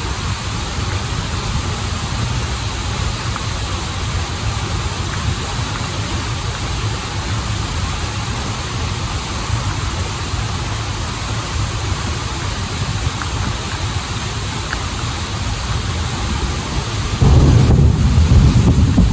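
Steady rushing of a waterfall and flowing stream water, with a deep low rumble under a hiss. About 17 seconds in, the low rumble suddenly grows louder.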